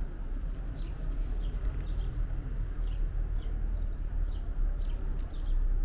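Small birds chirping on and off, two or three short high chirps a second, over a steady low rumble.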